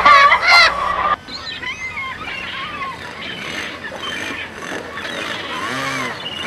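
Chickens squawking and clucking loudly for about the first second, then after an abrupt cut fainter bird calls and chirps over background noise.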